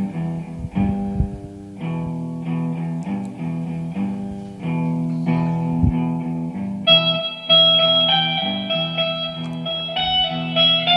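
Guitar playing a song's introduction: plucked chords ringing on, with higher notes joining about seven seconds in.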